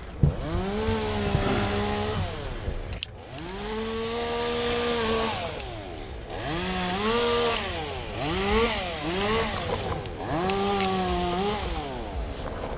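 Chainsaw revved to full throttle in about six separate bursts, each rising, holding briefly, then dropping back, as it cuts through wood during a tree removal.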